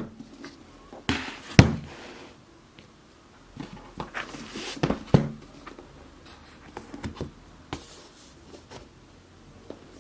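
Handling noises of objects being moved and set down: a few sharp knocks, the loudest about one and a half seconds in, with rustling between them.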